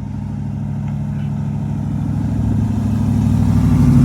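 Engine of a 1960s Chevrolet pickup truck running as it approaches, growing steadily louder.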